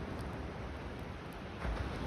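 Beach ambience of waves and wind, a low, steady rush that swells near the end, with a few faint crackles from a wood campfire.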